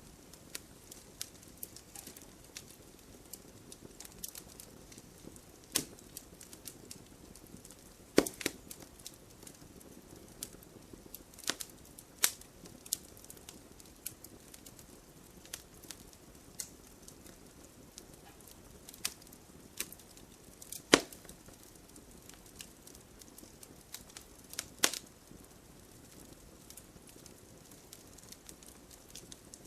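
Wood logs burning in a fireplace: a soft steady hiss with frequent small crackles and a handful of louder, sharp pops.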